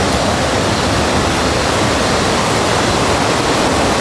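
Steady, loud rush of fast-flowing water, an even hiss with no breaks or changes.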